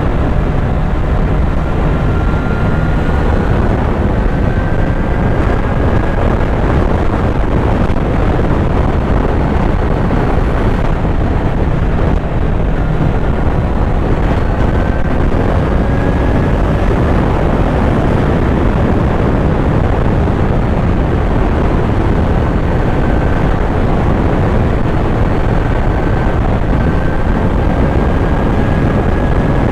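Kawasaki Z900's inline-four engine running at riding speed under a constant low rush of noise. The engine note climbs slowly several times, breaking off between climbs as the bike accelerates through the gears.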